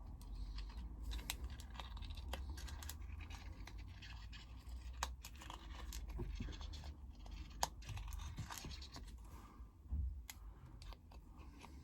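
Deburring the rough edge of a freshly punched hole in a coin by hand: a metal tool scraping and scratching around the hole in short, irregular strokes, with small clicks.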